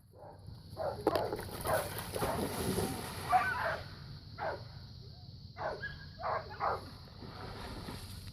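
A young retriever gives a string of short, excited whines and yips, about eight in all, spread over several seconds. A steady high hiss runs underneath.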